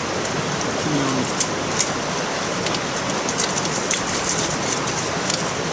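Rain falling steadily, with sharp drops ticking on a nearby surface, more of them in the second half.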